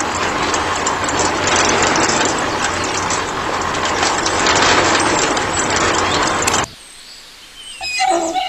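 Dense mechanical rattling clatter, a rapid run of clicks, that cuts off abruptly near the end, followed by a few brief higher tones.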